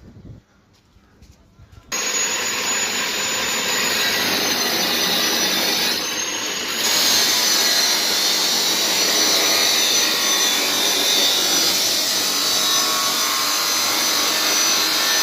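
An electric power tool working metal starts suddenly about two seconds in and runs steadily with a high whine over a harsh rasping noise. The whine sags briefly near the middle, as if the tool is pressed harder into the work.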